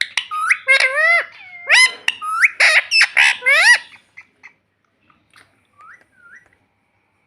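Pet Indian ringneck parrot calling: a quick run of short, rising squawks and whistles for about four seconds, then a few faint chirps.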